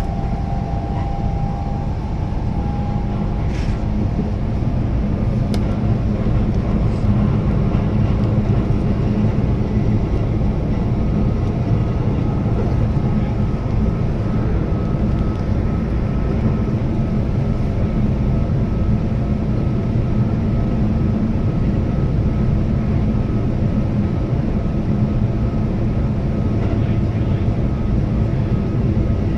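Keihan electric train running at speed, a steady rumble of wheels on rail and running gear heard from inside the front car. A faint steady whine fades out in the first few seconds and another comes in about eleven seconds in.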